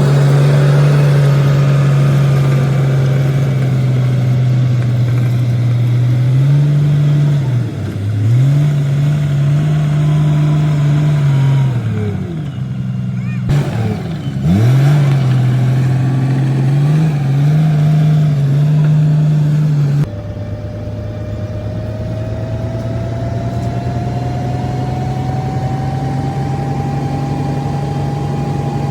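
Komatsu D58P bulldozer's diesel engine running hard under load, its note sagging and picking back up several times as the blade pushes. About two-thirds of the way through the sound changes suddenly to a steadier, slightly quieter engine note with a thin whine slowly rising in pitch.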